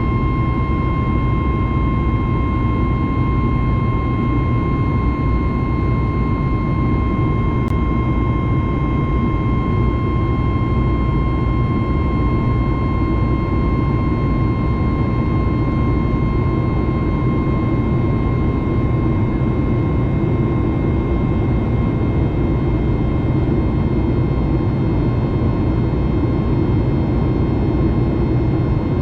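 Cabin noise of a Boeing 737 MAX 9 powered by CFM LEAP-1B engines under power, as in the climb: a steady, loud rumble with a constant whine from the engines.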